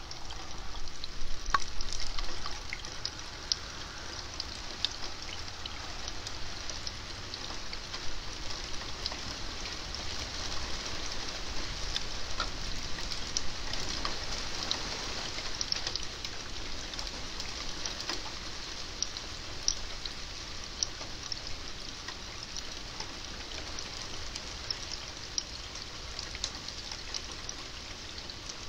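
Steady rain falling: a constant hiss dotted with the small ticks of individual drops.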